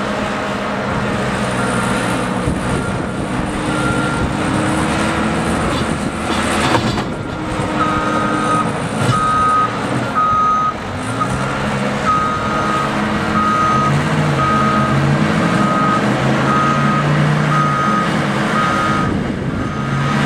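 A heavy snow-clearing vehicle's engine runs and revs up and down while its reversing alarm beeps. The beeps are faint at first and grow loud and regular from a little under halfway in, at about one every three-quarters of a second.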